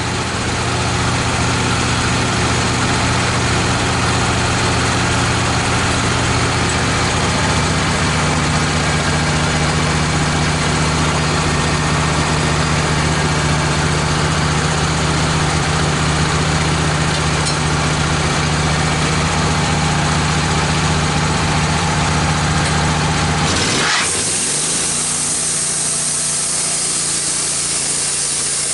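Wood-Mizer LT15 band sawmill's engine running steadily at speed, its tone rising slightly about eight seconds in. About 24 seconds in, the low engine tone drops away suddenly and a high hiss takes over as the band blade starts sawing red oak.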